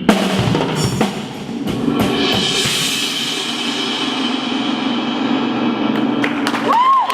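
High school indoor drumline with front ensemble playing the closing of its show: a sudden loud hit, a swelling cymbal roll and a held chord. The chord cuts off near the end, when crowd whistles and cheering start.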